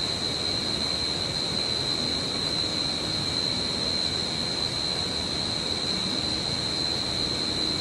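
A steady high-pitched whine held on one pitch, over a constant hiss.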